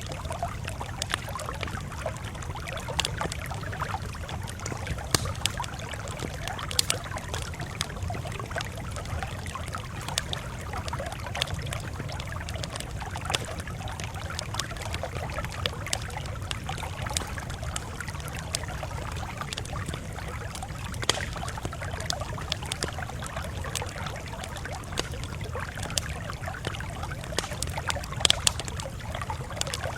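Campfire crackling: a steady low rumble of burning with scattered sharp pops and snaps at irregular moments.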